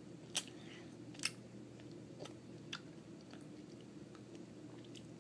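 Faint chewing of a piece of apple Laffy Taffy, with a few sharp wet mouth clicks, the two strongest in the first second and a half.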